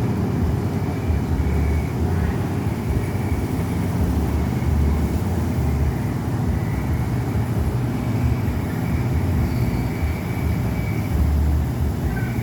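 Coffee dryer machinery running: a steady low rumble with a faint high whine that comes and goes.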